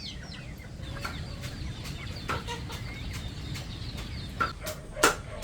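Chickens clucking and calling with short high chirps. Near the end come several sharp knocks, about three a second.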